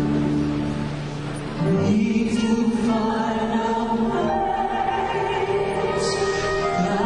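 Slow, operatic pop ballad sung over choir and orchestral backing, in long held notes; a new, louder sung phrase comes in about two seconds in.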